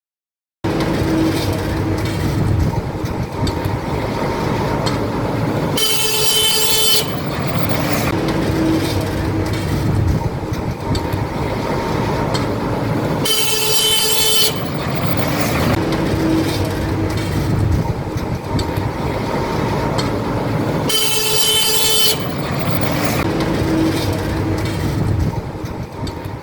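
Highway traffic rumbling, with a loud vehicle horn blast of about a second sounding three times, about seven and a half seconds apart. The same stretch of traffic sound repeats over and over and fades out at the end.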